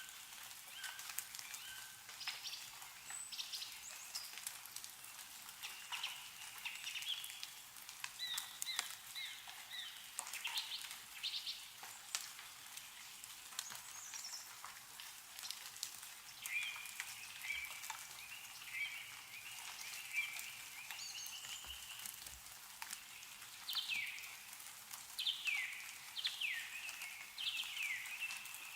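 Several birds chirping and calling on and off, many short notes and quick downward-sliding calls, with meltwater dripping from snow-laden trees as scattered small ticks.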